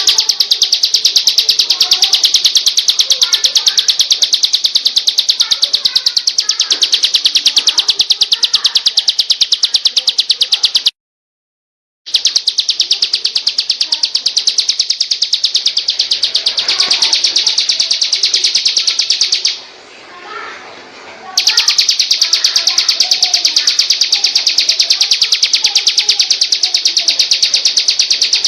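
Recorded songbird song for training cage birds: one bird's high, very fast buzzing trill, held almost without pause, over fainter lower chirps from other birds. It breaks off completely for about a second near the middle and drops away again for a couple of seconds later.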